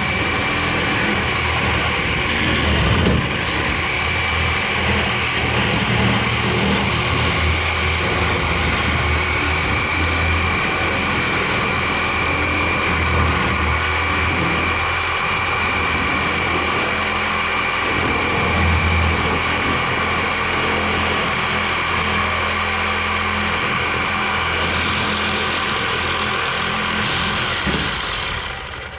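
A power tool's motor running steadily and loudly with a high whine, stopping just before the end.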